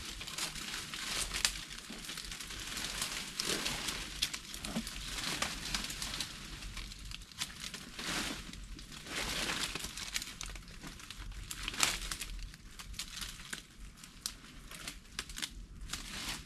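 Leaves and twigs rustling and crackling in irregular bursts as someone pushes through and handles the leaf litter and undergrowth.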